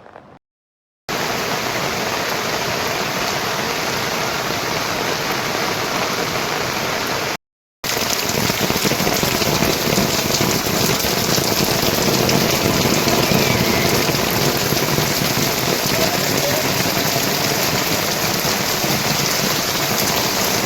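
Heavy rain falling as a steady, loud hiss, broken by two short silent gaps, one near the start and one about seven seconds in.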